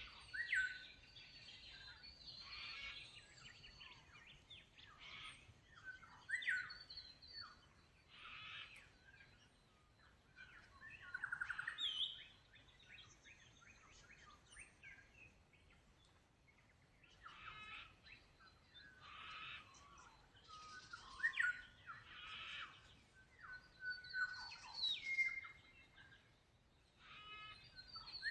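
Australian birds singing and calling: short separate phrases of chirps and whistles every second or so, some sliding in pitch, one with a fast stutter of notes about halfway through.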